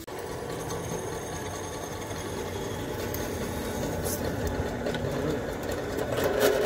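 Drill press running and drilling a hole, a steady motor hum with a thin high whine. It starts suddenly, grows louder near the end, then stops.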